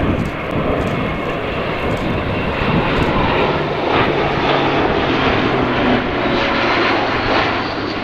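Airbus A400M Atlas flying a display pass, its four Europrop TP400 turboprop engines running loud and steady. A low propeller hum shifts in pitch about four seconds in.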